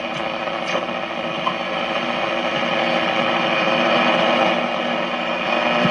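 Hallicrafters S-40B tube shortwave receiver playing through its speaker while tuned between stations: steady static hiss with faint steady whistling tones and an occasional crackle.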